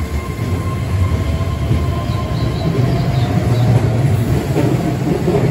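Keihan 3000-series electric commuter train pulling away from the platform and gathering speed past the listener: a steady low rail rumble growing louder, with a faint motor whine slowly rising in pitch.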